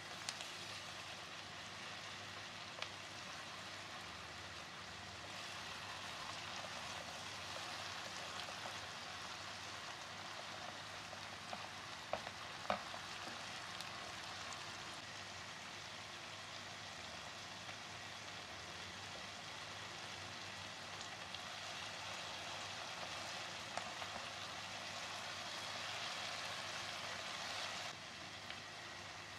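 Food sizzling steadily as it fries in hot oil in a pan, with a few faint clicks.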